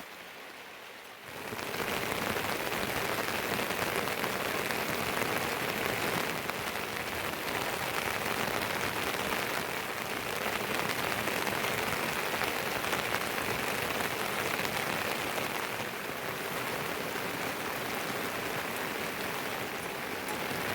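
Steady heavy rain, a dense even hiss that comes in suddenly louder about a second and a half in.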